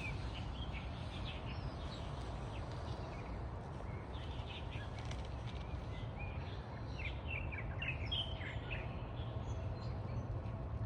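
Small birds chirping: short, high calls scattered throughout, coming thickest about two-thirds of the way in, over a steady low background rumble.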